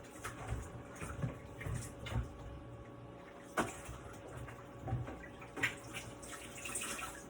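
Kitchen tap running while hands are washed at the sink, with a few sharp knocks and clinks about halfway through and near the end.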